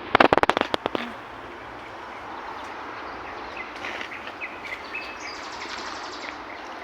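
Small birds chirping over a steady outdoor hiss, with a buzzy trill a little past the middle. A quick rattle of loud clicks in the first second is the loudest sound.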